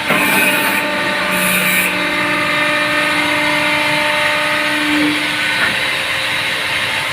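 Cocopeat press machine running: a steady motor hum with a whine, two short hisses in the first two seconds, and a slight dip in pitch about five seconds in.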